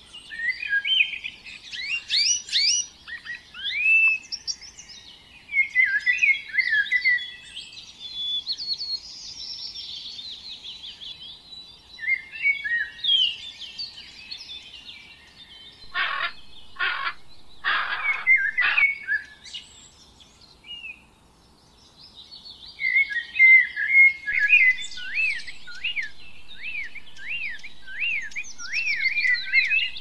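Small songbirds chirping and singing in quick high trills and whistled phrases. About halfway through, a blue-and-yellow macaw gives four harsh squawks.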